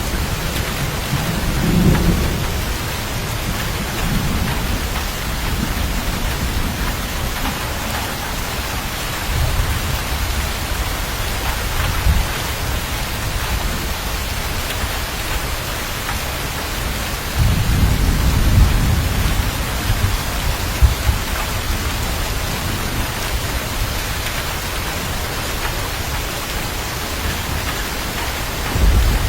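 Steady heavy rain, with rolls of thunder rumbling low several times: a short one about two seconds in, more around ten to twelve seconds, and a longer roll a little past halfway.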